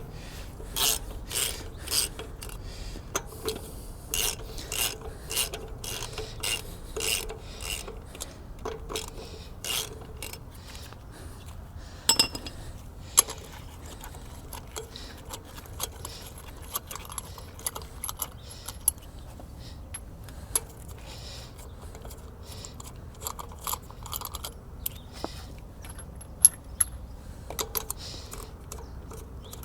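Short, evenly spaced rasping strokes, about two a second, for the first ten seconds or so, then scattered sharp metallic clicks and clinks.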